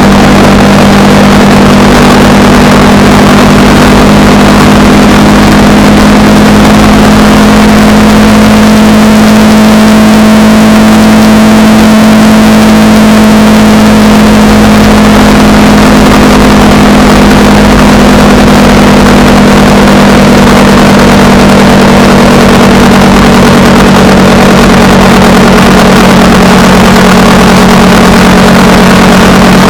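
Honda Rebel 300's single-cylinder engine running at a steady cruising speed on the move. Its hum rises slightly in pitch around the middle and settles back, over a constant rush of wind and road noise.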